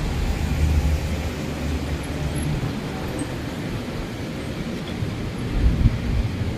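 Steady low rumble of a train running past, with no horn or wheel squeal.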